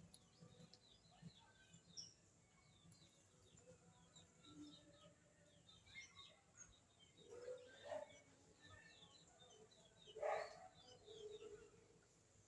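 Faint, busy chirping of many small birds, with a couple of louder calls about eight and ten seconds in.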